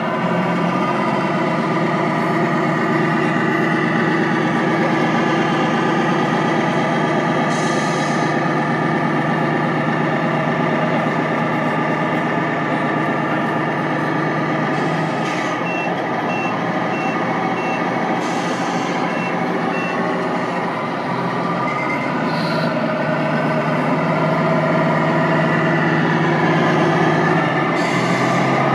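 Tamiya 1/14 radio-controlled trucks' sound units playing a steady diesel-truck engine sound. A reversing beeper sounds a run of short beeps partway through, and there are several short air-brake hisses.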